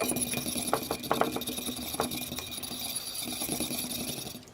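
A metal fork stirring quickly in a bowl of oil, scraping and tapping against the bowl in a fast, busy clatter with a few sharper clicks.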